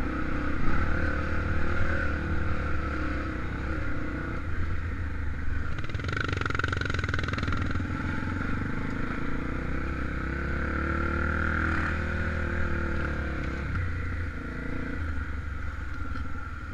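Honda XR 250 Tornado single-cylinder four-stroke engine running while being ridden, its revs rising and falling a few times with the throttle.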